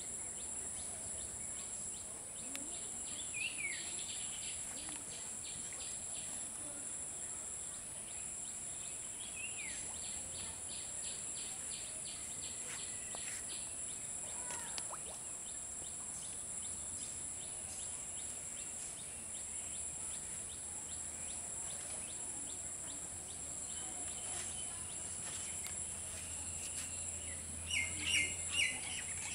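Wild birds calling: a few short falling calls and bouts of rapid chirping, with louder repeated chirps near the end, over a steady high-pitched buzz.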